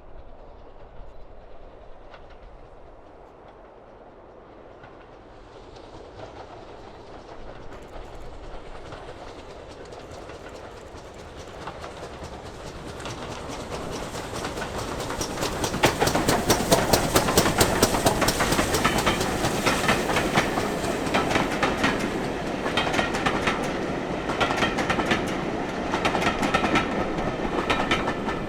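A train approaching and passing close by, its wheels clicking over the rail joints. It builds from faint to loud over about fifteen seconds and stays loud, with rapid clicking, to the end.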